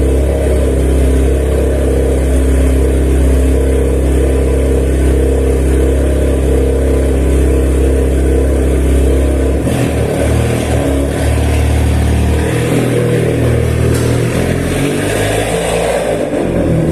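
Volkswagen Jetta 2.0 TSI turbocharged four-cylinder on a straight-through exhaust with a 3-inch downpipe and no mufflers, running loudly after a cold start. A steady low drone for the first ten seconds or so, after which it turns uneven and unsteady.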